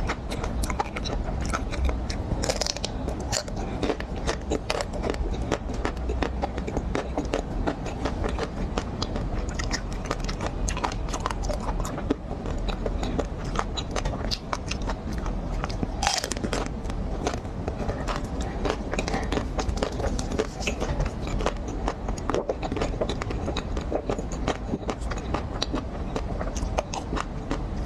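Close-miked biting and chewing of chocolate-coated ice cream bars, the chocolate shell cracking and crunching in many small, irregular clicks.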